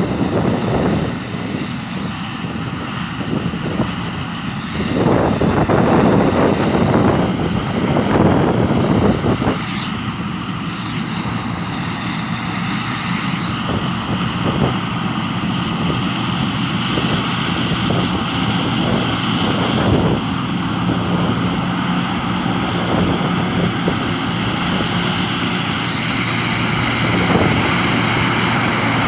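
Combine harvester and tractor engines running steadily at work, with gusts of wind buffeting the microphone in the first third.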